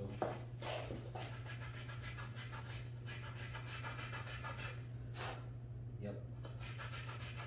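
Leather cue tip rasped in quick repeated strokes, about three a second, against a Willard's tip shaper, taking down a soft tip that has flattened out.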